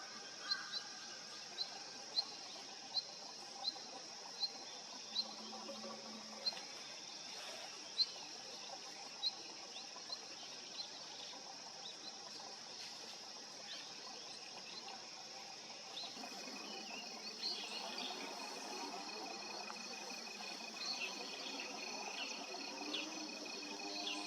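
Long-tailed rosefinch giving short, sharp high call notes about once every second for the first ten seconds or so, then more sparsely. Over a steady high hiss, a continuous high trill comes in about two-thirds of the way through, with scattered chirps.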